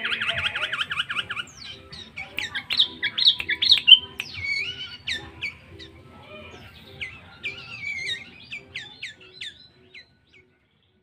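Sooty-headed bulbul calling: a fast run of chirps in the first second and a half, then scattered sharp chirps and short whistled phrases that thin out and stop near the end.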